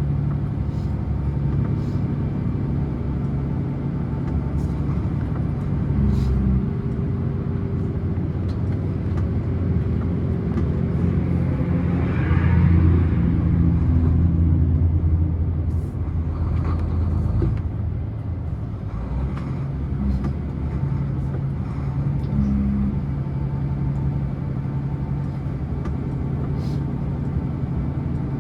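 Scania truck's diesel engine running steadily on the downhill run, a low continuous hum that grows louder for a few seconds midway.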